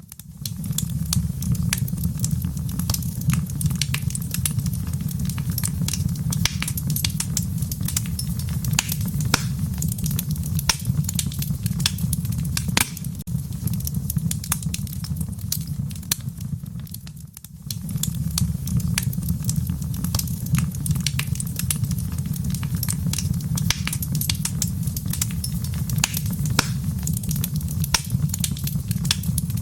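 Wood fire crackling in a fireplace: frequent sharp pops and snaps over a steady low rumble. The sound dips briefly about 17 seconds in, then carries on.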